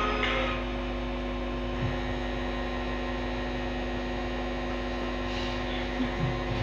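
Steady electrical mains hum, a low buzz made of several fixed tones that holds unchanged while the music is stopped.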